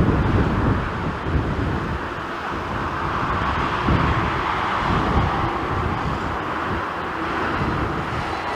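Strong gusty wind buffeting the microphone, over the steady roar of a jet airliner's engines, which swells in the middle.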